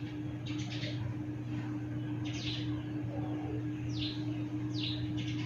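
A bird chirping: a handful of short, falling chirps spaced irregularly, over a steady low hum.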